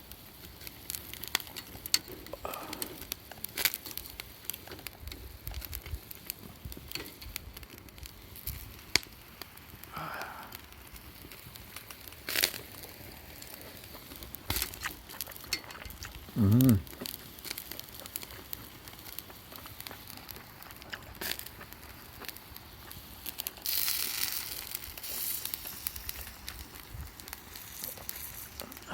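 Wood campfire crackling, with irregular sharp pops and snaps over a quiet background.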